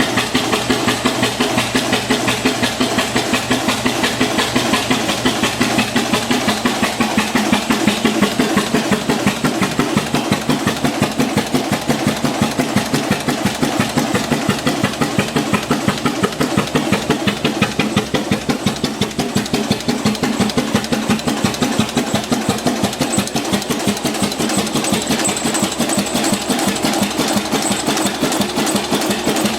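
1916 Avery 12-25 tractor engine running at a steady speed with an even, rapid chuffing beat, at its first firing after an engine and drive-train rebuild.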